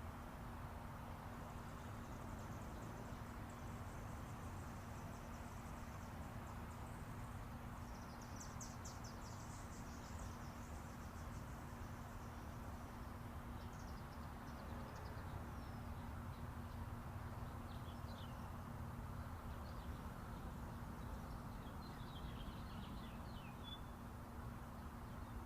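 Songbirds chirping and trilling in short high phrases, with a rapid run of notes about a third of the way in, over the steady background rumble of interstate highway traffic.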